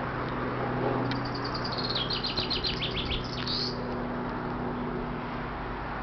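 A small songbird sings a quick run of about a dozen high chirps, starting about a second in and ending about two and a half seconds later. Under it runs a steady low hum with background noise.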